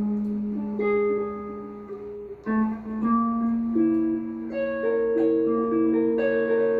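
Guitar playing three-note chords from the B melodic minor scale, the notes of each chord picked one after another and left to ring. The chord changes about two and a half seconds in.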